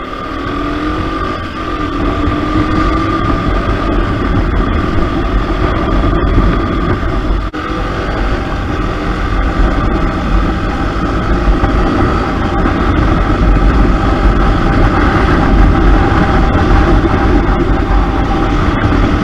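KTM RC 200's single-cylinder engine heard from the rider's seat while riding, its pitch rising as it accelerates over the first couple of seconds, then running steadily at speed with a constant low rush of wind. There is one brief dip in loudness about seven and a half seconds in.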